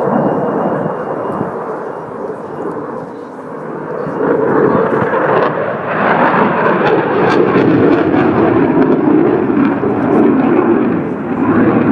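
Aircraft engine noise, a loud, even rush that grows louder about four seconds in and stays loud.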